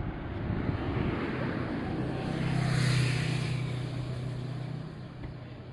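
A road vehicle passing by: its tyre and road noise swells to a peak about halfway through and fades away, with a steady low engine hum while it is closest.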